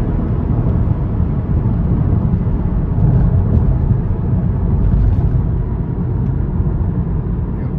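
Steady low rumble of the MK7 Golf R on the move, heard from inside the cabin: its EA888 Gen 3 turbocharged four-cylinder engine running together with road noise, with no clear rise or fall in pitch.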